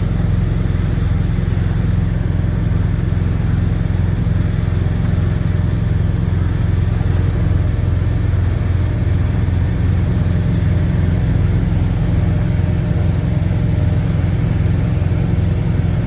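Truck engine idling with a steady low rumble and a fast even pulse.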